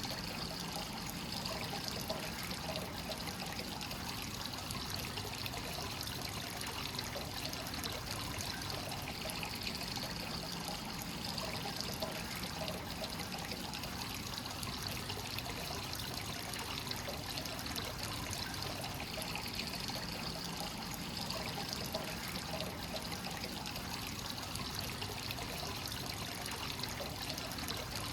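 Hot spring water pouring steadily and trickling into a bath, the constant inflow of a free-flowing (kakenagashi) onsen.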